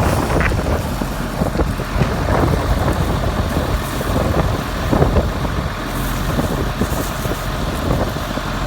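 Steady low rumble of a running vehicle engine, with wind buffeting the microphone.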